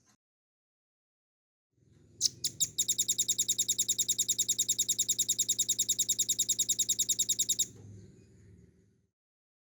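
Velvet-fronted nuthatch singing. A few sharp separate notes lead into a fast, even trill of about ten notes a second, which lasts about five seconds and cuts off abruptly.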